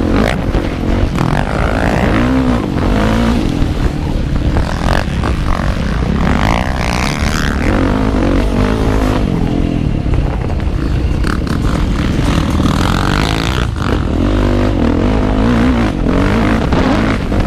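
Motocross motorcycle engine heard from on board while riding a track, its revs rising and falling again and again through the lap, with occasional knocks and rattles from the bike.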